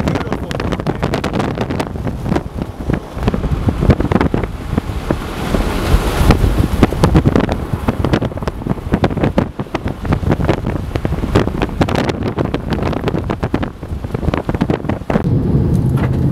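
Strong, gusty wind buffeting the camera microphone with a loud, uneven rumble. Near the end it gives way to a steadier low hum.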